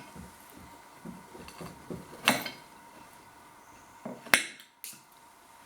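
Cutlery clinking against a plate twice, about two seconds apart, between faint soft sounds of eating.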